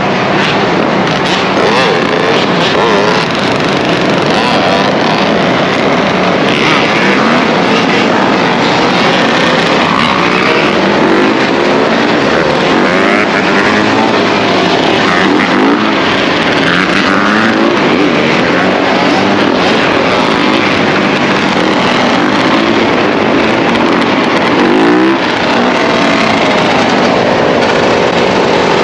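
Many dirt bike and ATV engines running and revving together, with overlapping engine notes that keep rising and falling in pitch.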